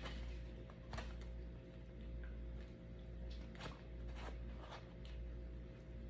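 Someone eating: a few scattered short clicks and smacks of chewing and handling food, over a steady low hum.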